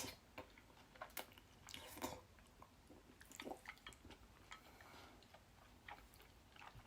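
Faint, close-miked chewing of a chewy bunmoja (thick tapioca-starch noodle), a string of small wet mouth clicks.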